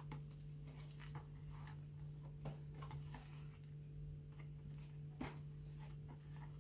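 Faint, irregular clicks and rustles of paper as the pages of a handmade altered book are handled and turned, over a steady low hum.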